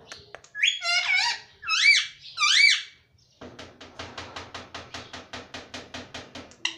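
Ringneck parrot calling: three loud squawks that each rise and fall in pitch, then a rapid, even chatter of about eight squeaky pulses a second.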